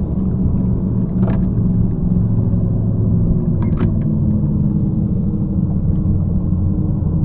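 High-performance powerboat engines rumbling steadily, with a few brief clicks about a second in and again near four seconds.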